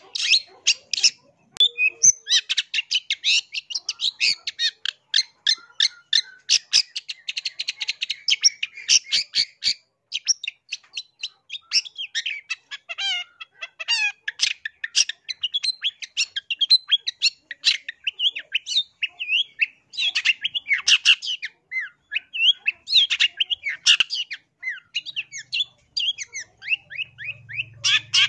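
Long-tailed shrike (cendet) singing a fast, unbroken chatter of sharp, high notes, with very rapid runs of repeated notes in the first ten seconds.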